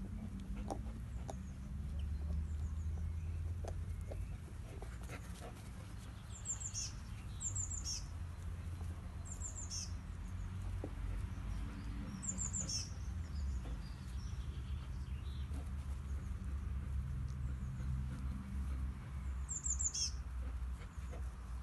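Small birds chirping: short, high chirps that fall in pitch, singly or in pairs every few seconds, over a low steady rumble. A few faint clicks in the first few seconds.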